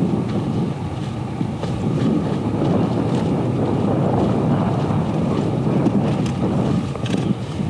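Wind buffeting the microphone: a steady low-pitched rush with no break.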